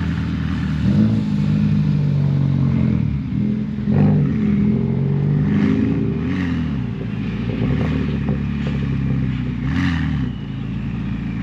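Car engine revving, its pitch rising and falling over and over.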